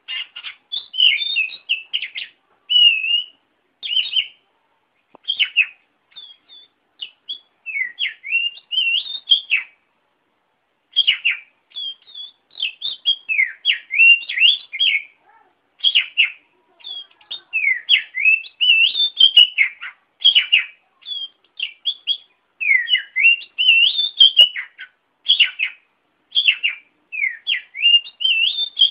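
Oriental magpie-robin (kacer) singing a long string of varied whistled phrases that sweep up and down in pitch, with short pauses between them and a longer break about ten seconds in.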